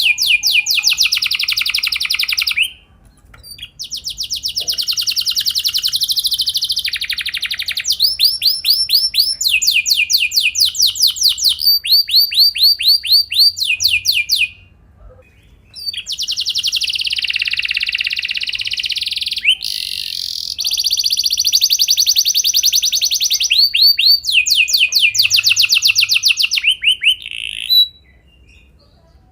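Canary singing long rolling trills: fast runs of repeated sweeping notes strung into long phrases. It pauses briefly about three seconds in, around the middle, and just before the end.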